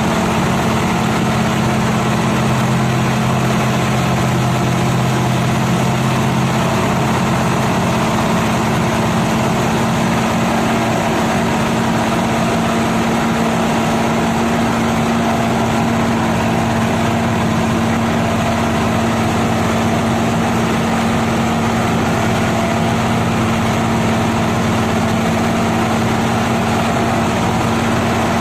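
Nissan TZA 520 dump truck's diesel engine running steadily with a loud, even low drone.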